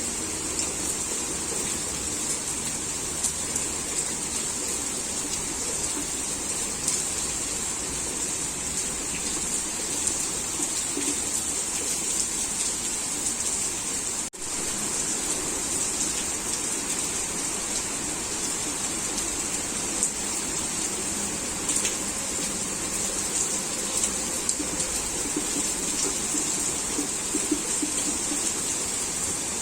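Heavy rain falling in a steady, even hiss, with scattered small ticks of drops. The sound drops out briefly about halfway through.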